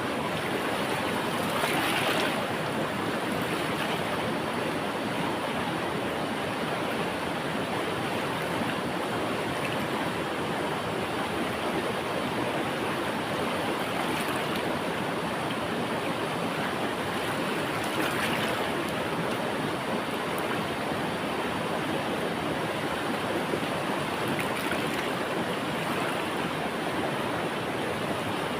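River water flowing in a steady, continuous rush, swelling briefly louder about two seconds in and again a little past the middle.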